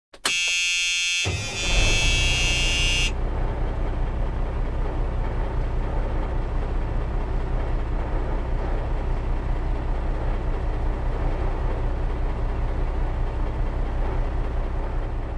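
A high horn-like toot lasting about three seconds, then a steady low engine rumble with a fast even pulse, like a truck idling, running on throughout.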